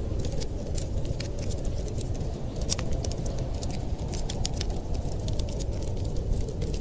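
Fireplace fire crackling, with irregular sharp pops and snaps over a steady low rumbling noise.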